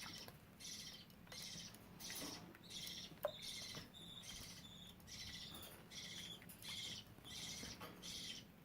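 Budgerigars calling: a faint raspy chirp repeated about every two-thirds of a second, steady in rhythm, with a short whistled note and a single sharp click a little after three seconds in.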